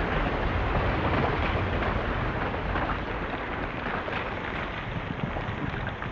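A loud, steady rushing rumble with heavy low-end, slowly fading.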